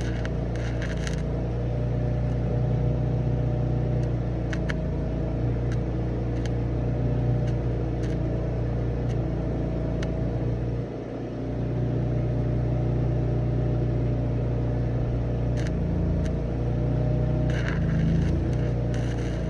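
An engine running steadily, with a short dip in level about eleven seconds in and a few faint clicks over it.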